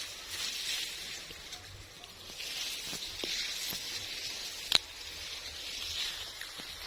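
A wheat crop rustling, a soft hiss that swells and fades in waves, with one sharp click about two-thirds of the way through.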